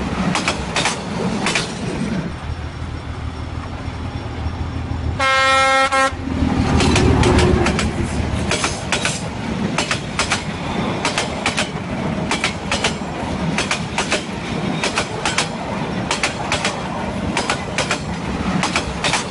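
BNSF freight train passing close by: steel wheels knocking over rail joints in a repeating clickety-clack as the locomotives and hopper cars roll past. A single horn blast of about a second sounds about five seconds in, and a low engine rumble swells just after it, then fades as the cars continue clicking past.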